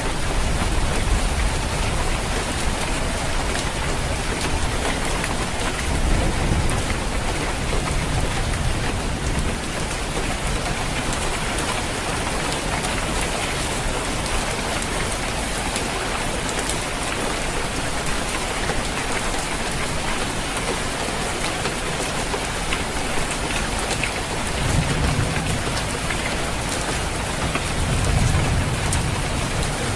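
Steady rain falling on a roof, an even hiss and patter throughout. Low rumbles of thunder swell under it now and then, most strongly near the end.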